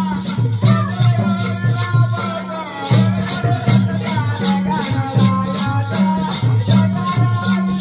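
Traditional folk music with a fast, even beat of shaken or struck percussion at about six strokes a second, low drum notes in a repeating pattern, and a wavering melody line above.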